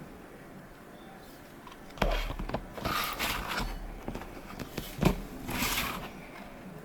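3D-printed plastic parts being handled during assembly: a sharp knock about two seconds in and another about five seconds in, with scraping and rustling between them.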